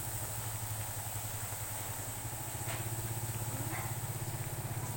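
A small engine running steadily at idle, a low hum with an even pulse.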